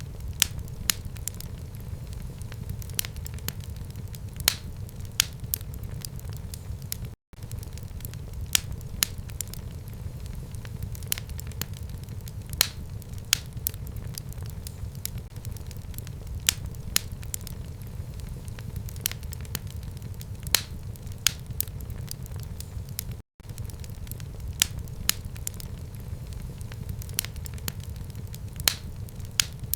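Fire burning in a home fireplace: a steady low rumble with sharp crackles and pops, irregular, roughly one or two a second. The sound cuts out completely for an instant twice.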